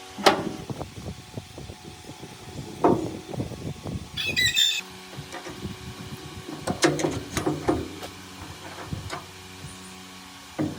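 Workshop sounds of metal parts being handled: scattered clicks and knocks, a short high squeak about four and a half seconds in, and a low steady hum through the second half.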